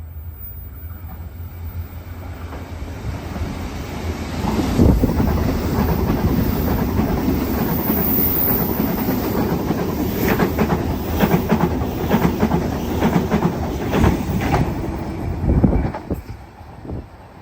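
A train passing through at speed: a rumble that builds about four seconds in, then a fast rhythm of wheel clicks over the rail joints as the carriages go by, ending abruptly about a second before the end.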